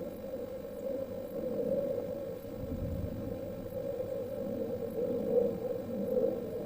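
Heritage railway train running, a steady rumble and hum.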